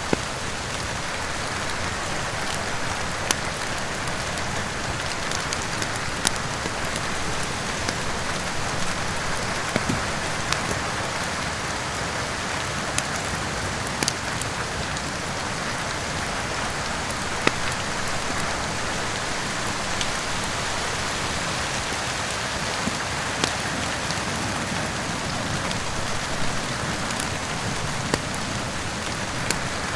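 Steady rain falling, a continuous hiss, with sharp pops and crackles from a wood fire scattered every second or two.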